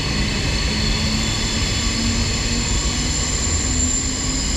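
Underground train running, a steady rumble with a low electric motor whine that slowly rises in pitch as the train picks up speed, over a thin high-pitched whine.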